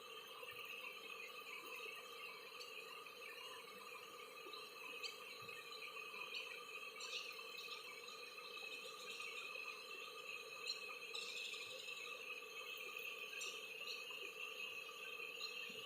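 Faint, steady chorus of insects trilling at several pitches at once, layered continuously, with a few brief high chirps scattered through it.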